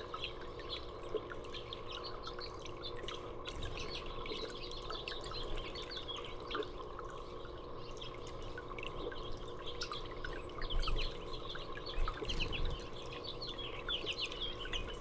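Small songbirds chirping and twittering with many short, high calls, busier in the last few seconds, over the steady sound of dripping, trickling water.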